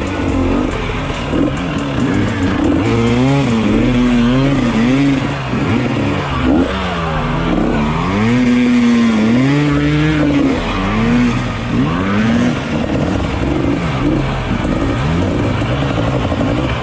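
Dirt bike engine revving over and over, its pitch rising and falling with each twist of the throttle.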